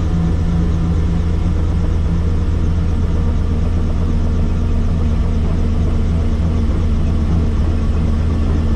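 Helicopter's engine and rotor drone, a loud, steady low hum heard from on board.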